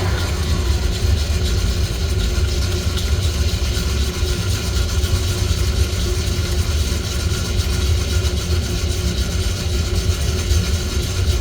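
Steady low rumbling noise of coffee-roasting equipment running during a home roast, with a whine falling in pitch and dying away at the very start.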